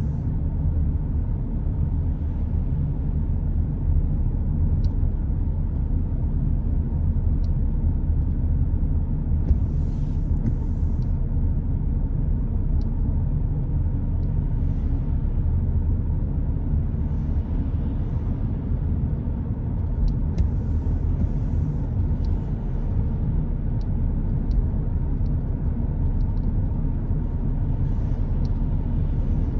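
Car driving on a wet road, heard from inside: a steady low road rumble, with hiss from tyres on the wet surface swelling and fading now and then.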